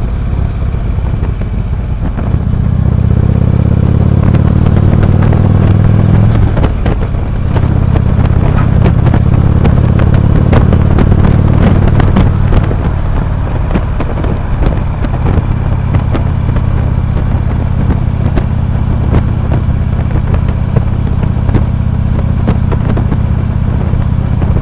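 Harley-Davidson V-twin motorcycle engine running on the road, heard from the moving bike. A few seconds in, the engine note climbs and gets louder as the bike accelerates. Halfway through it eases back to a steady cruise.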